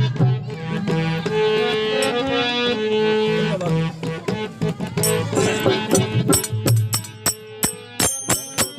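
Instrumental passage of a Rajasthani folk devotional bhajan: a held, sustained melody over hand-drum beats, with sharp, bright clicking percussion growing dense in the second half.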